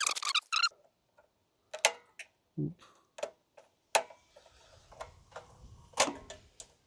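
Scattered sharp clicks and light metallic knocks of hand work on small-engine parts: pliers and a spring hose clamp being worked onto the carburetor's fuel line. One duller knock comes about two and a half seconds in.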